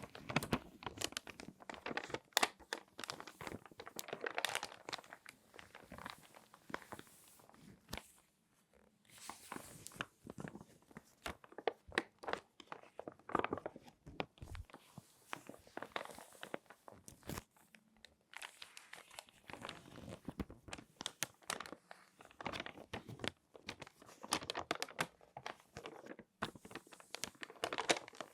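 Glossy magazine pages being folded and handled by hand, with dense irregular crinkling and crackling of the paper and short pauses now and then.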